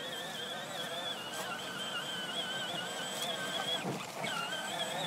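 Electric drive motors and gearboxes of a 12-volt John Deere Gator ride-on toy whining as it drives along, the pitch wavering with speed, with a brief dip about four seconds in.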